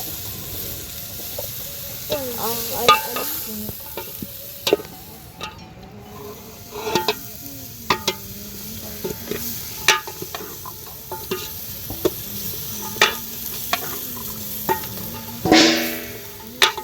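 Food frying and sizzling in a pan while a metal utensil stirs it, scraping and knocking against the pan about once a second, with one longer scrape near the end.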